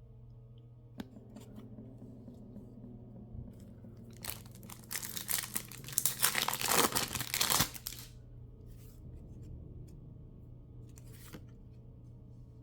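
A Pokémon TCG mini booster pack wrapper being torn open: a crinkly rip lasting about three seconds in the middle. Light rustles and clicks of handling come before and after it.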